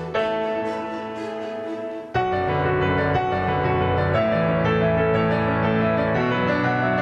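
Background piano music: held chords, with a new, fuller chord struck about two seconds in.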